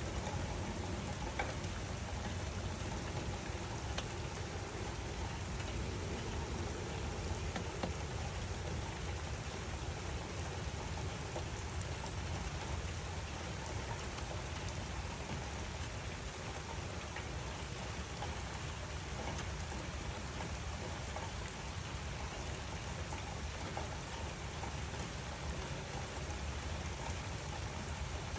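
Steady rain falling, an even hiss of drops with a few separate taps standing out now and then.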